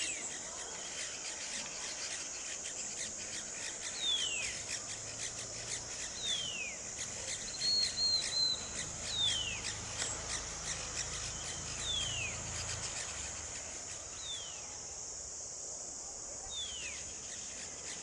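A bird calls with a single whistled note that slides downward, repeated about every two to three seconds, with one short trill about eight seconds in. A steady high insect buzz runs underneath.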